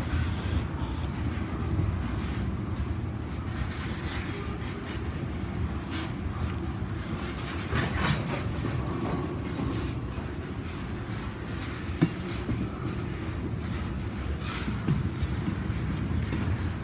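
Freight train rolling past with a steady low rumble of wheels on rail and a few sharp clicks, the loudest about twelve seconds in.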